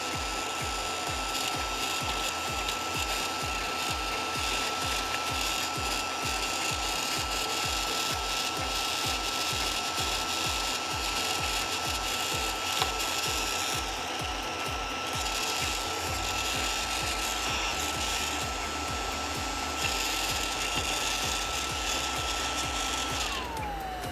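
Tsuchiya YAC CD-158 air purifier's small fan motor running, a steady whine over the rush of air, with a rattling buzz that this new unit makes as an abnormal noise. Near the end the whine falls in pitch as the fan is switched off and spins down.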